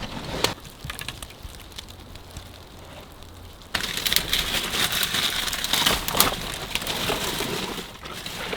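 Rustling and crunching of someone moving about and handling things, with scattered sharp clicks. It gets suddenly louder a little under four seconds in.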